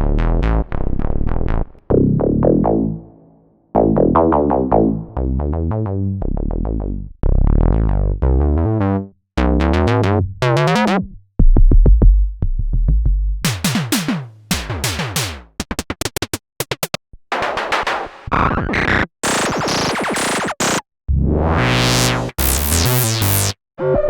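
Roland System-100 software synthesizer auditioning one preset after another: short bass notes and note runs, then a rapid string of short blips, then noisy sweeping sounds, each patch cut off by a brief gap before the next.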